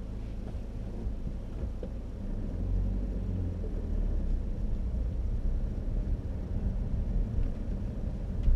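Car's low engine and road rumble heard from inside the cabin, growing louder about two and a half seconds in.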